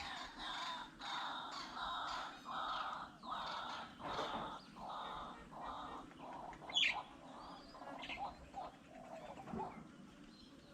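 Birds calling: a run of repeated calls, roughly two a second, that tails off toward the end, with one sharp, loud, high call about seven seconds in.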